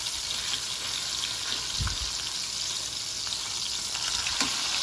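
Breaded pork chops sizzling in a hot frying pan: a steady frying hiss with scattered crackles, and a soft low thump about two seconds in.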